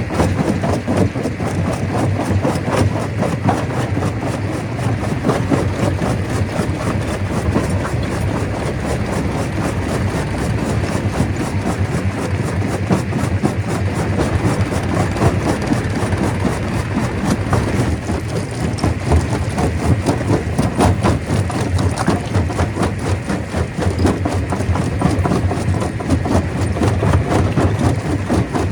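Stone crusher running, a steady heavy mechanical rumble with continuous rapid clattering and knocking of rock being broken.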